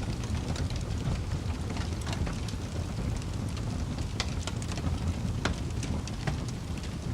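Wood fire crackling: irregular sharp pops and snaps over a low, steady rumble of burning, with a few louder pops about four and five and a half seconds in.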